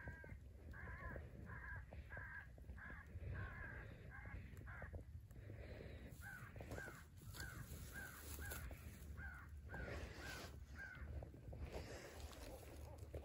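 Crow caws in two quick runs of short, evenly spaced calls, about eight in the first few seconds and another eight or nine starting about six seconds in.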